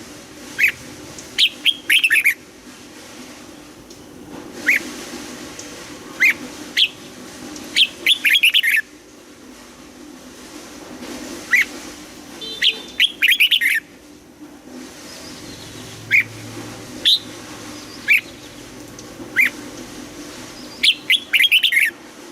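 Red-whiskered bulbul singing: short, sharp whistled notes, singly or in quick clusters of three or four, at irregular intervals over a faint steady hum.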